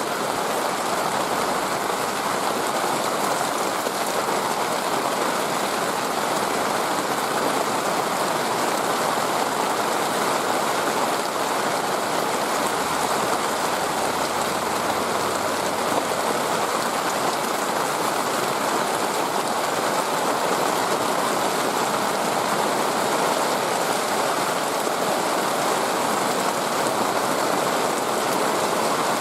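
A steady, even rushing noise, like heavy rain, holding the same level throughout.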